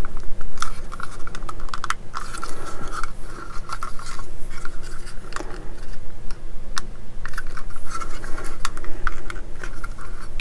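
Small plastic model-kit parts being handled on a work surface: irregular light clicks and scraping.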